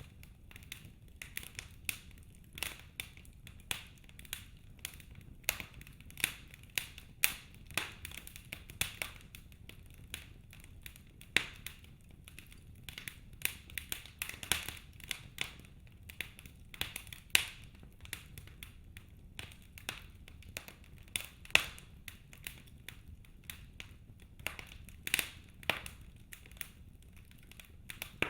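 Logs burning in a fireplace, crackling: irregular sharp pops and snaps, a few every second, some much louder than others, over a faint low rumble.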